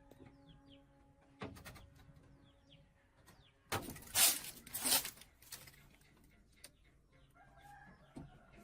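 Small birds chirping in quick, short falling calls, broken by a loud burst of noise lasting about a second and a half near the middle and a shorter knock about a second and a half in.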